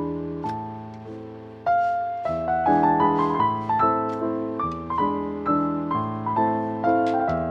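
Background piano music: a gentle melody of single notes and chords, each note fading after it is struck, growing louder about two seconds in.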